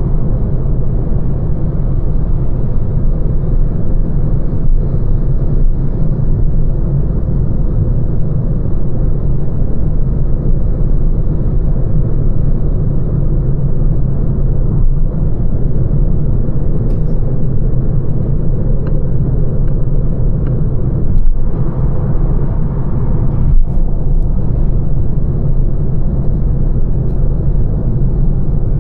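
Lancia Ypsilon hatchback driving along: a steady low rumble of road and tyre noise.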